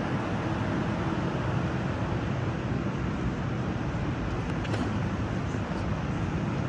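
Moscow Metro train running through a tunnel between stations, heard inside the car: a steady rumble and roar of wheels on rails.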